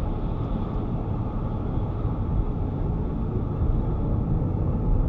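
Steady road noise inside a moving car's cabin at about 40 mph: engine and tyre noise with a low rumble.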